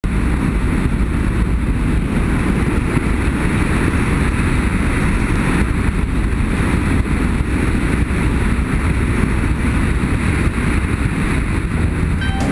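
Motorcycle riding at steady speed: engine running under a loud, steady rush of wind noise on the microphone.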